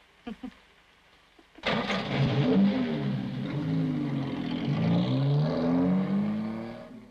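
Convertible sports car's engine started and driven off hard: two short sounds about half a second in, then the engine catches about a second and a half in and revs as the car accelerates away, its pitch climbing and dropping several times, fading near the end.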